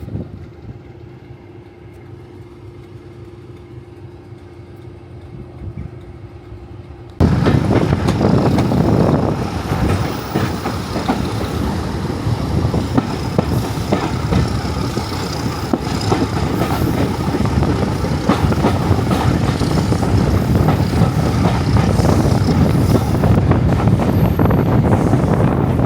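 Heritage diesel train: a quiet steady hum for about seven seconds, then a sudden jump to the loud running noise of the train with wheels and rail joints clattering.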